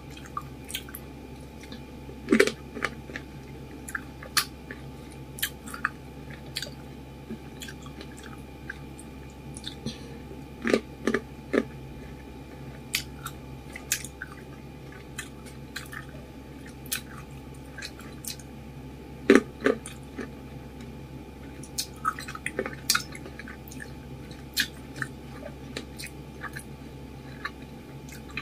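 Close-miked wet chewing of fresh fruit, with soft mouth clicks and smacks throughout and a few louder bites and squelches about two seconds, eleven seconds and nineteen seconds in.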